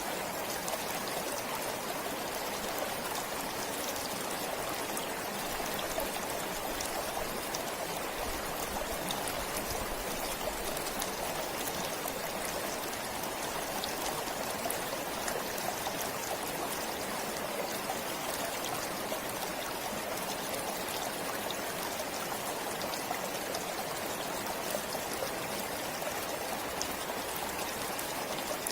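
Forest stream flowing steadily, a continuous rushing and trickling of water.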